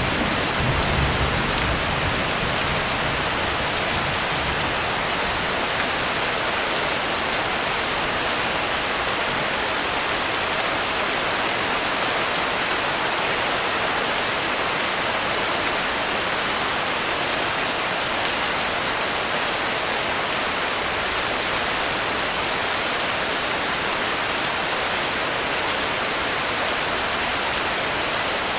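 Steady heavy rain falling, an even hiss. The low rumble of thunder dies away in the first couple of seconds.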